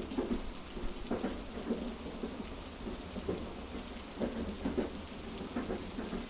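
Heavy rain as a steady hiss over the low rumble of a moving train carriage, with short knocks from the wheels on the track coming at uneven intervals.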